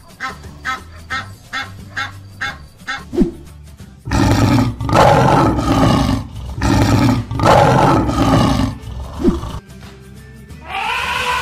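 A goose honking, short calls about three a second, then a lion roaring several long, loud roars, over background music.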